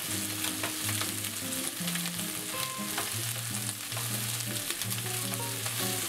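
Bacon and onion sizzling steadily in a frying pan as they are sautéed, with light clicks and scrapes of a utensil stirring. Low background music plays underneath.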